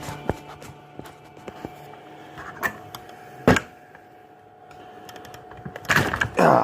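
Light clicks and taps of metal parts being handled as the top of a Quadrajet carburetor is worked loose, with one sharper knock about three and a half seconds in.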